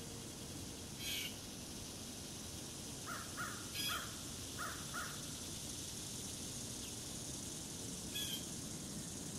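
Bird calls over a steady background hiss: one harsh call about a second in, a quick run of five short calls around the middle, and another call near the end.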